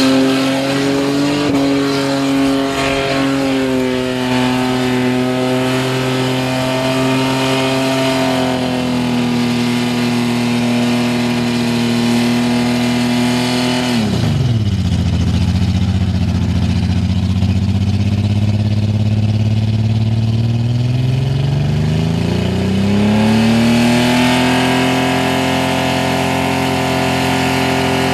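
Holden Commodore engine held at high, steady revs in a burnout, with the rear tyres spinning. About halfway through, the revs drop sharply and hold low for several seconds, then climb back up and hold high again.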